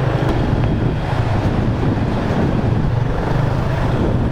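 Wind buffeting the microphone on a moving motorcycle, with the bike's engine humming steadily underneath.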